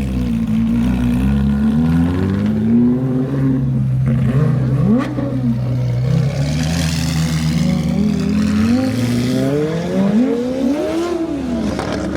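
Sports-car engines revving and accelerating as cars drive off, the engine pitch climbing and falling several times.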